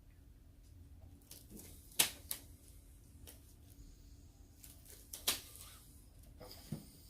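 A few sharp clicks and snaps, spaced a second or more apart, with quiet between them.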